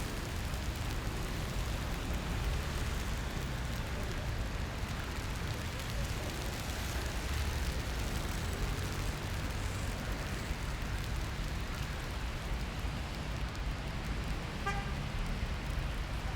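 Steady city street ambience in the rain: rain hiss mixed with a low rumble of passing road traffic. Near the end a brief pitched tone, like a short car horn toot, sounds once.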